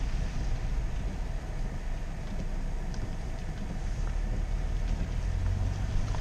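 Steady engine and road noise of a car being driven slowly through flooded streets, heard from inside the cabin.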